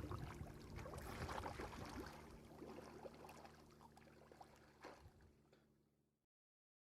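Faint outdoor background noise with a few scattered clicks, fading away to complete silence about six seconds in.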